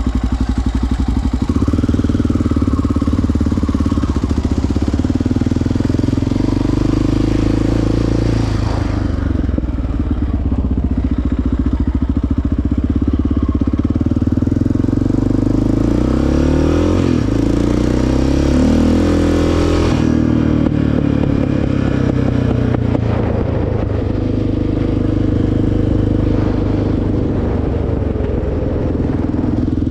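Single-cylinder four-stroke ATV engine running close by, mostly steady, with the revs rising and falling several times about halfway through.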